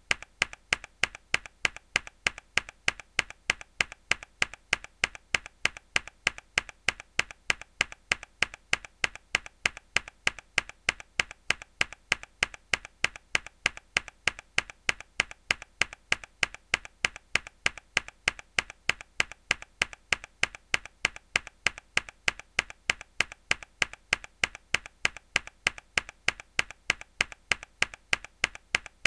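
Hard key press on a mechanical keyboard repeated in an even loop: sharp clicks, about three a second, all alike.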